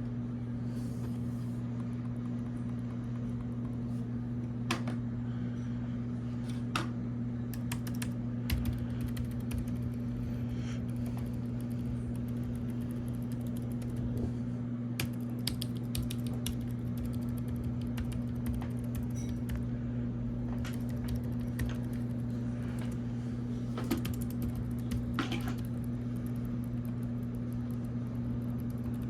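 Logitech K380 Bluetooth keyboard being typed on: scattered, light key clicks in short runs, over a steady low hum.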